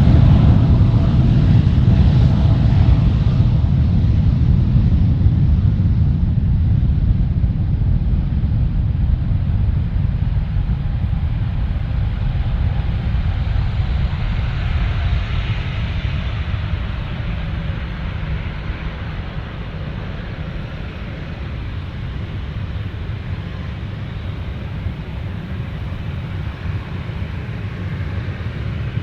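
Jet engines of a widebody airliner on departure: a deep, loud rumble that slowly fades as the aircraft climbs away.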